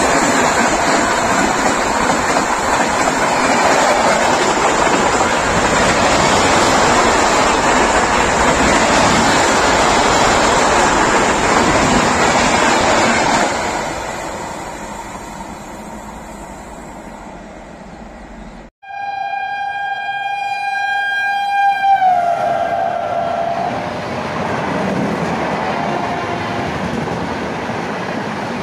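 Indian express passenger train running through a station at speed: loud rumble and rattle of the coaches passing, fading away as the train recedes. After a sudden cut, a train horn blows for about three seconds and drops in pitch as the train passes, followed by the steady rumble of coaches going by.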